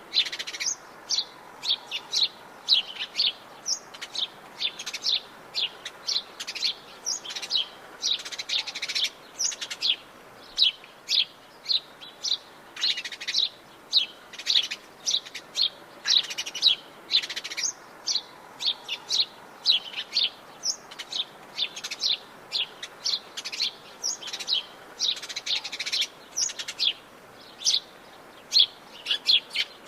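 Birds chirping and singing: a dense, continuous run of short, high chirps, several a second, over a faint steady background hiss.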